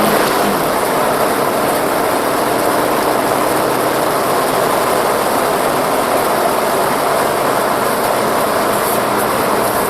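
Steady vehicle noise: engine and tyres running on the road, as picked up by a dashcam.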